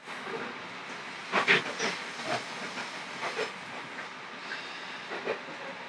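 Resort Shirakami hybrid railcar running along the line, heard inside the passenger car: a steady hissing rumble with a few louder clatters, the loudest about a second and a half in.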